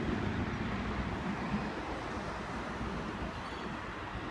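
Endeavour diesel railcar set passing through the station, a steady rumble that slowly fades as the train draws away.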